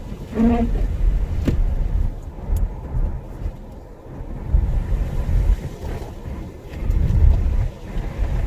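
A car driving, heard from inside the cabin: an uneven low rumble of road and engine noise that swells and fades. There is a short pitched hum about half a second in and a sharp click about a second and a half in.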